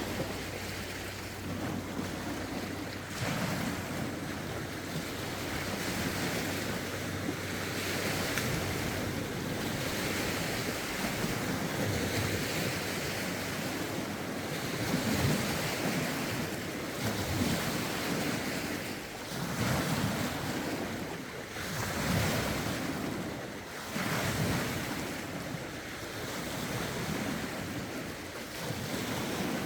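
Lake waves lapping and breaking against the shore in rough wind, in repeated surges every few seconds, with wind buffeting the microphone.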